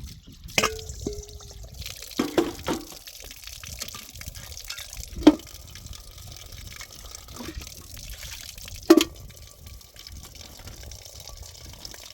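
Water running or being poured, with a steady hiss and several sharp knocks and clinks of household objects. The loudest knocks come about five and nine seconds in.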